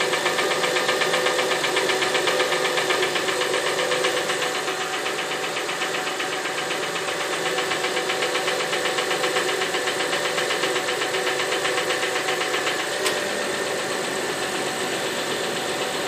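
Honda Ridgeline's 3.5-litre V6 VTEC engine idling with a rapid, even tick riding over it, plus a single sharp click about thirteen seconds in. The tick persists with the valves freshly adjusted and a new timing belt fitted; the owner traced it to a piston tapping the bottom of the cylinder.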